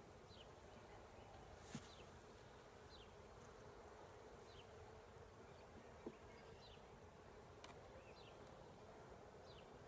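Faint steady hum of honeybees swarming around an opened hive, with short high chirps about once a second and a few light clicks.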